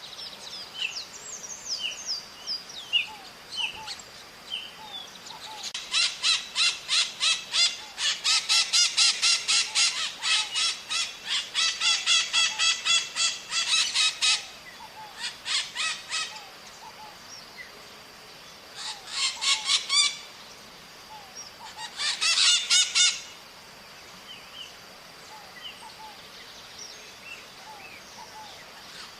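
Maritacas (small Brazilian parrots) screeching: several bouts of rapid, harsh repeated calls, the longest lasting about eight seconds, with fainter scattered chirps between the bouts over a steady high-pitched hum.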